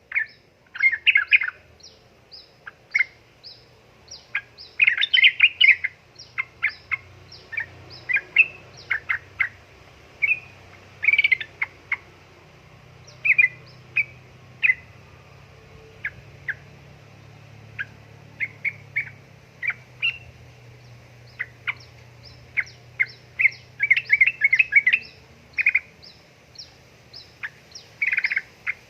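Yellow-vented bulbul (trucukan) calling: many short, sharp chirps at uneven spacing, broken by quick chattering runs of notes several times.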